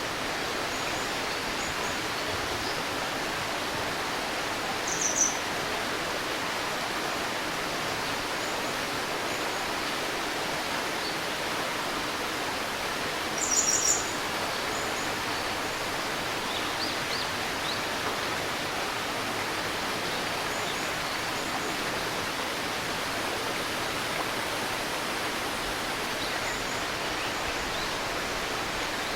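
Shallow river babbling steadily, with short high bird chirps now and then; the loudest come about five seconds in and around fourteen seconds in.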